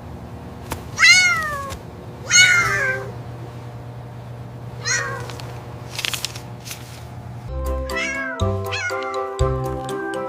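A cat meowing three times, each meow falling in pitch: two loud ones in the first three seconds and a softer one about five seconds in. Background music with a steady beat comes in about two and a half seconds before the end.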